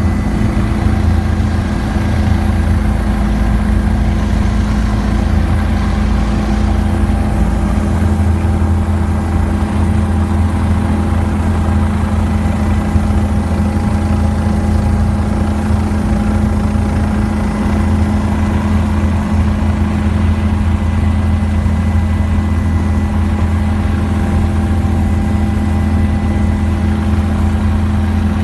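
Helicopter engine and rotor noise heard from inside the cabin in flight: a steady, loud low drone with a faint high whine above it.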